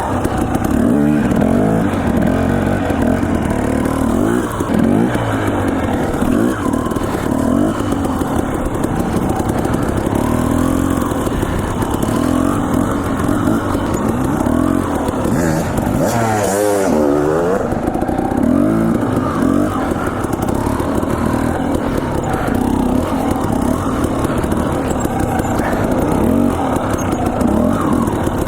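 Dirt bike engine being ridden along a trail, its revs rising and falling over and over with throttle and gear changes.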